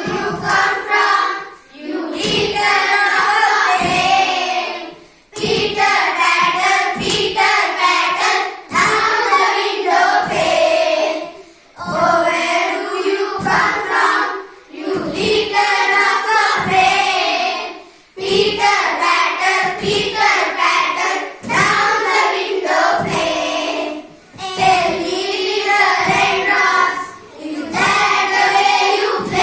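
A group of young children singing an English action rhyme in unison, in short phrases with brief breaks between them.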